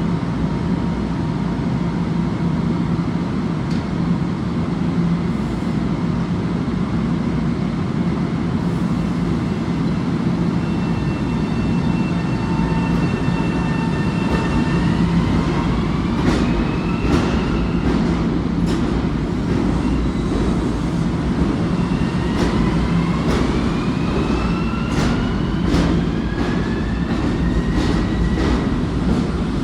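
Electric rapid-transit train running with a steady low rumble. From about halfway its traction motors whine, rising in pitch twice as it picks up speed, with sharp clicks of the wheels over rail joints.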